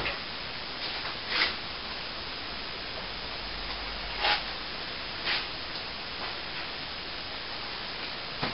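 A few short scrapes of a tool, the clearest about one and a half, four and five seconds in, over a steady hiss.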